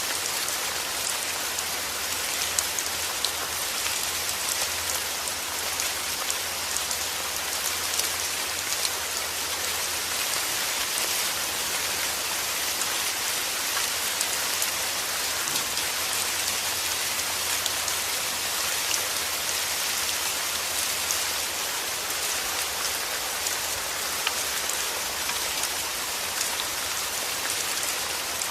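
Heavy rain falling steadily, a dense even hiss with many small sharp drop hits.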